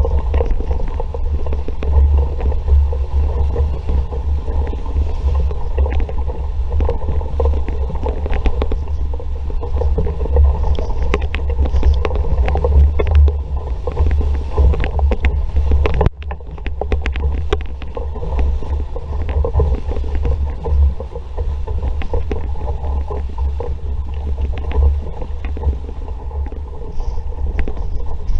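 Wind buffeting the microphone with water rushing past a sailing dinghy's hull, with scattered splashes and slaps around the middle. The level drops suddenly about sixteen seconds in.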